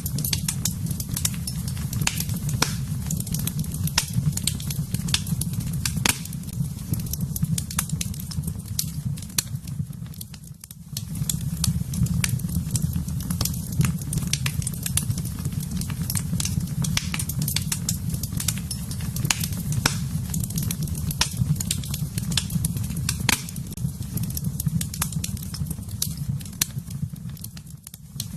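Wood fire burning in a fireplace: many sharp crackles and pops over a steady low rumble of flames. The sound drops away briefly about ten seconds in and again near the end.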